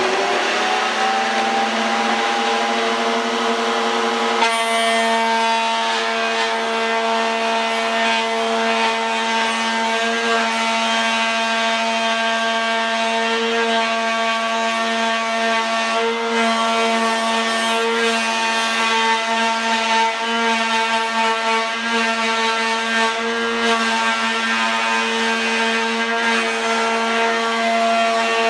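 An electric power-tool motor spinning up with a rising whine, then running at a steady high pitch. About four seconds in, a rougher, hissier layer joins it and carries on.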